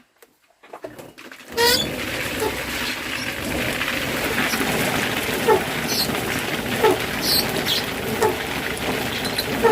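Animal calls over a steady rushing noise that starts abruptly about a second and a half in: short falling cries repeat about every second and a half, with some higher chirps.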